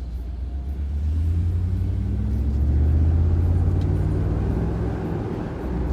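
Mercedes R129 500SL's 5.0-litre V8 running through a muffler-deleted exhaust, a low rumble that builds over the first few seconds, is strongest about three seconds in, then eases.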